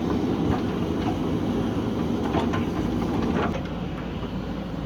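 Backhoe loader's diesel engine running steadily under work, with a few light knocks over it, easing off a little about three and a half seconds in.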